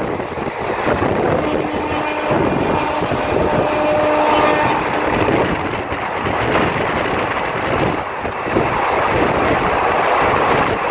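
Running noise of a moving train heard from an open carriage window, a steady rumble and rush with wind buffeting the microphone. A faint held tone sounds in the background from about one and a half to five seconds in.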